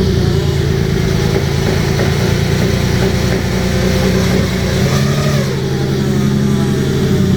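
BMW 335i E90's inline-six engine idling just after starting, a steady running sound with a faint high-pitched whine over it, the whine the owner hears on start-up.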